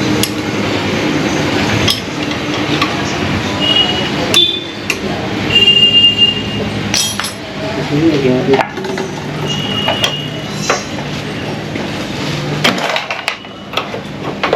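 Hammer blows on metal, struck irregularly every one to three seconds, several leaving a short high ring. The hammering is plausibly on a motorcycle's seized shock absorber bolt being driven out.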